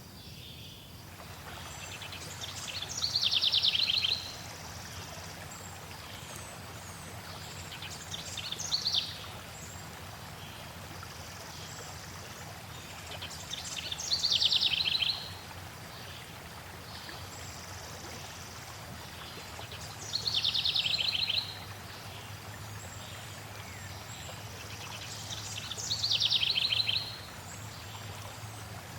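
A songbird repeating a short, rapid, high trilled song about every five to six seconds, five times, over the steady rush of flowing water.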